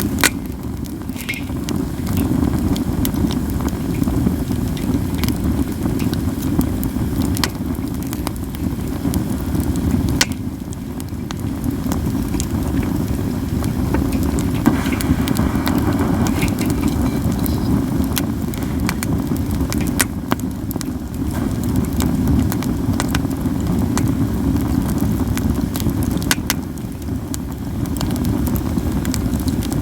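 Katsura wood campfire burning: frequent crackles and scattered sharp, loud pops over a steady low rush.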